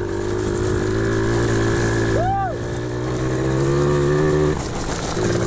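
Pit bike engine running steadily under load while pushing a second rider, its pitch climbing slightly and then dropping back about four and a half seconds in.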